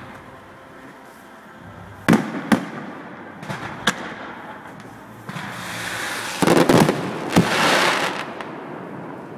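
Fireworks display: a few sharp shell bursts about two seconds in, then a cluster of loud bangs around six and a half seconds followed by a drawn-out crackling hiss.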